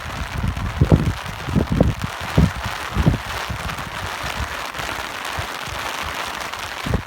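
Steady rain hissing, with low gusts of wind buffeting in irregular bumps during the first three seconds and again near the end.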